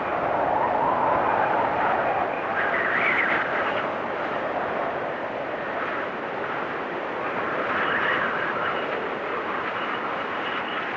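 Blizzard wind gusting in a steady rush, swelling and easing, with higher whistling gusts about three and eight seconds in.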